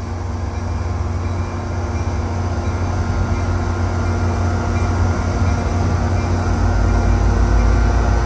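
Diesel push-pull commuter train approaching slowly, the locomotive's engine rumble and the wheels on the rails growing steadily louder.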